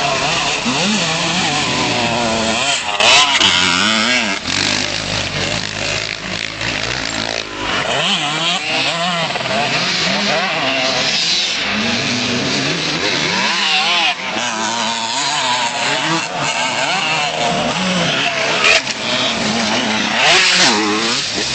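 Motocross bikes' engines revving, the pitch rising and falling as riders open and close the throttle, with several bikes running at once. A few times a bike gets louder as it passes close.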